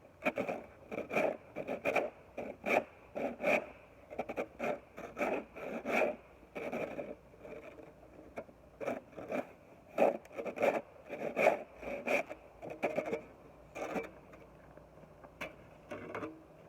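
Footsteps crunching through snow at a steady walking pace, thinning to a few scattered steps and stopping near the end.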